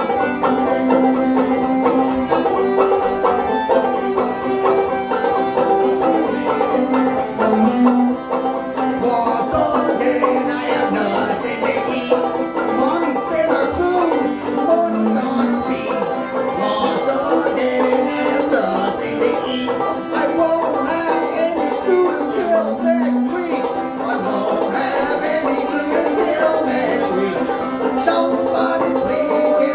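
A band playing a country-style song with a banjo to the fore.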